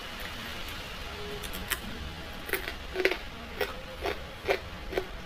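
Eating sounds: a run of short, sharp mouth clicks and smacks of chewing, about two a second, starting a second and a half in.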